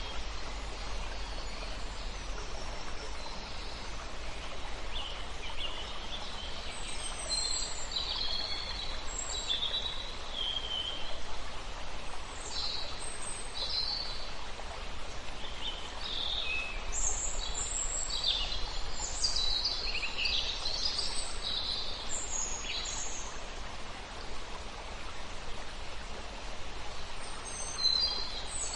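Several songbirds singing and chirping over a steady rush of flowing river water, with bursts of short high whistles and trills busiest about halfway through.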